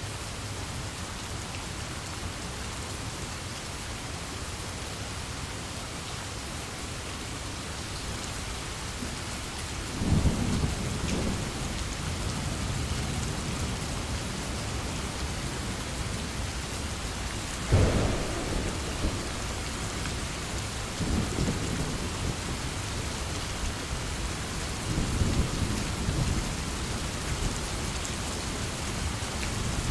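Steady heavy rain with rolling thunder: after a third of the way in, low rumbles build, a sharper thunderclap breaks out a little past the middle, and further rumbles follow.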